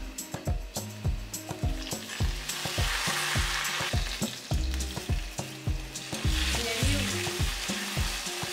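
Coconut pieces and curry leaves sizzling as they fry in coconut oil in a cast-iron kadai, stirred with a steel ladle. The sizzle swells twice, once about a third of the way in and again near the end, over background music with a steady beat.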